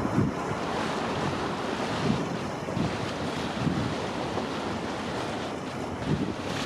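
Wind buffeting the microphone in low gusts, about five of them, over a steady rushing of wind and water.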